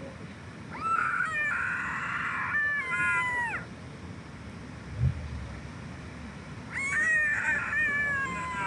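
A cat meowing: two long, drawn-out wavering meows a few seconds apart, each falling in pitch at the end. There is a short dull thump between them.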